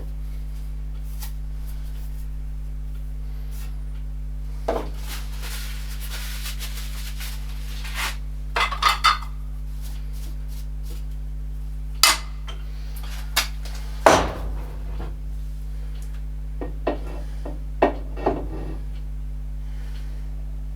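Metal parts and tools clinking and knocking as they are handled and set down, a dozen or so separate clanks with the loudest about two thirds of the way through, over a steady low hum.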